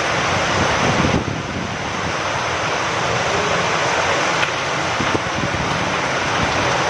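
Steady rain falling, mixed with wind: an even rushing noise that dips briefly about a second in, with a couple of faint ticks of drops later on.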